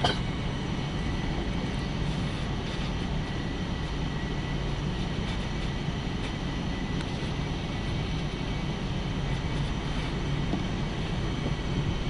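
Steady rumble of a road vehicle driving, engine and road noise with no sharp events.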